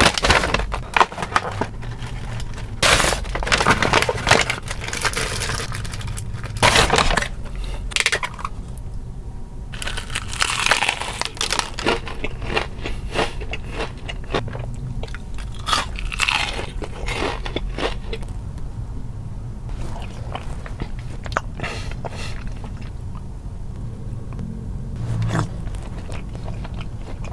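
Close-miked biting and chewing of crispy KFC fried chicken: repeated loud crunches of the breaded coating, densest over the first two-thirds, then quieter, steadier chewing.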